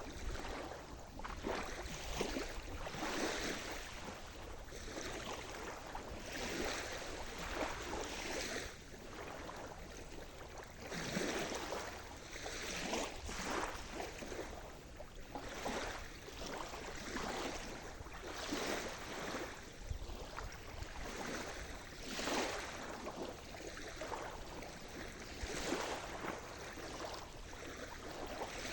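Sea waves washing onto a shore, in repeated swells of water noise every second or two.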